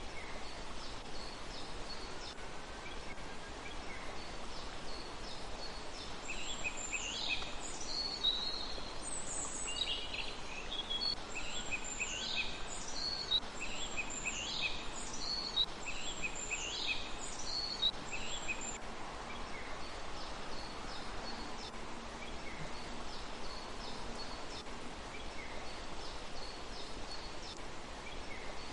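Small birds calling: a series of short, sharp, high calls that drop in pitch, about one a second through the middle, with fainter high chips before and after, over a steady outdoor hiss.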